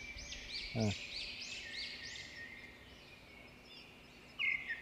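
A bird singing faintly: a quick run of repeated arching high notes, about three a second, that fades out after a couple of seconds. Near the end another, lower run of chirping notes starts.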